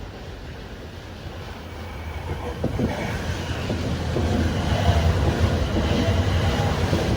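Hokuriku Shinkansen E7 series train approaching, its rumble growing louder from about two seconds in and staying loud through the second half.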